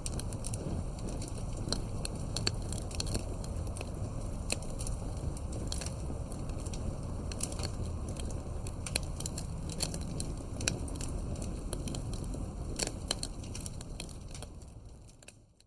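Campfire crackling: scattered sharp pops and snaps over a low steady rumble of burning wood. The sound fades out near the end.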